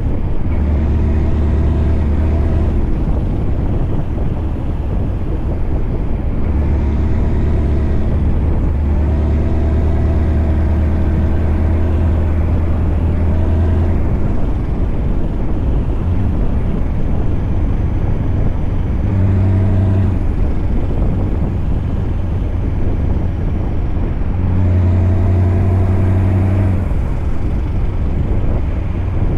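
Scania V8 truck engine running steadily with a deep low note that swells and eases several times, over a constant rumble.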